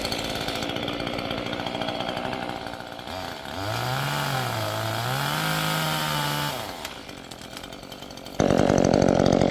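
Dewalt 60V top-handle battery chainsaw making the back cut through the pine's trunk, its electric motor whining steadily, then dipping and rising in pitch as it bogs under load in the wood. Near the end a sudden loud rush of noise starts as the top gives way.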